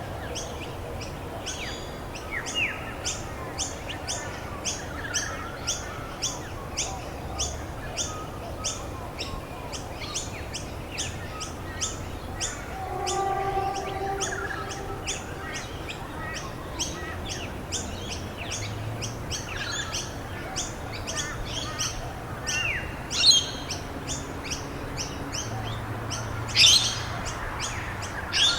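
Birds chirping in a natural soundscape: one bird repeats a short high chirp about twice a second throughout, other birds call in between, and two louder sweeping calls come near the end, over a steady background hiss.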